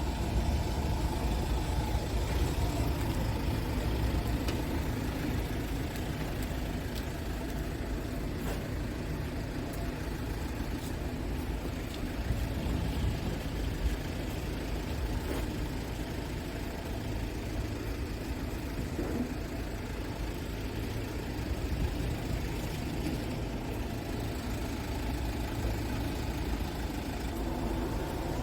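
Scania S tractor unit's diesel engine running steadily at a constant speed, with no revving.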